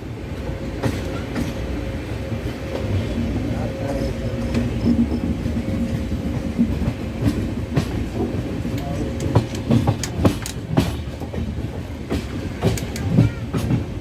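Passenger train running, heard from on board: a steady low rumble with irregular clicks and knocks from the wheels on the track.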